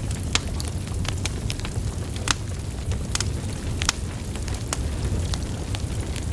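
Wood fire burning: a steady low rumble of flames with irregular sharp crackles and pops from the logs, a few of them louder.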